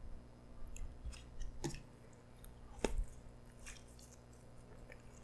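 Close-miked chewing of a pretzel-wrapped hot dog topped with cheddar cheese dip: soft, wet mouth clicks and smacks, the loudest a little under three seconds in, thinning out near the end.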